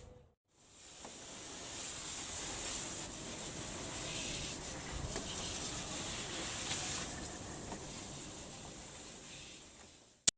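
A steady spraying hiss of water, like a jet rinsing a car's engine bay, that fades out near the end, followed by a single sharp click.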